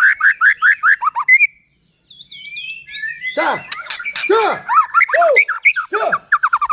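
White-rumped shama (murai batu) singing: a fast run of repeated whistled notes, a sudden break of about half a second, then a varied, loud phrase of downward-sweeping notes and quick trills.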